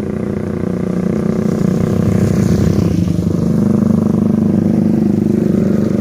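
Diesel engine of a heavily loaded truck labouring at low speed up a steep climb, with a fast, even throb. It grows louder over the first few seconds, then holds steady.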